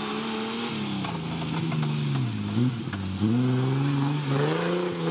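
Off-road race 4x4's engine running hard over a steady hiss. Its note sags about two seconds in, revs back up sharply a little past three seconds, and climbs again near the end.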